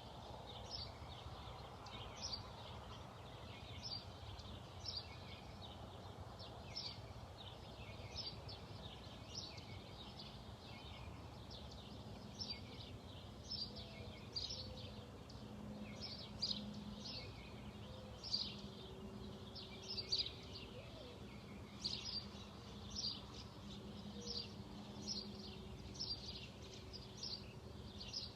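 Small birds chirping: short, high, falling chirps repeated about once or twice a second, over a faint steady low hum.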